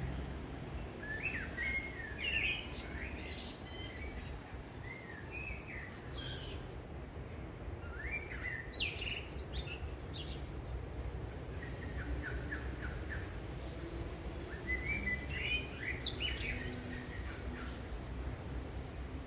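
Small birds chirping and singing in several short bursts of quick, chirpy phrases, over a steady low rumble.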